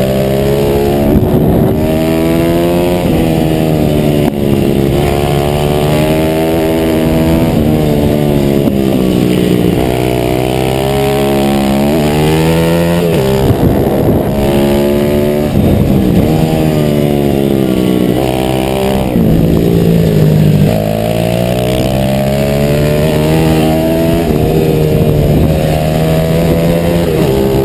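140cc single-cylinder pit bike engine heard onboard at race pace, its revs climbing and dropping again and again every few seconds as the rider accelerates, shifts and backs off for corners, with wind rushing over the microphone.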